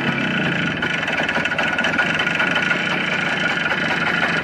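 Motorcycle engine idling steadily just after starting first time, still cold and warming up; very loud.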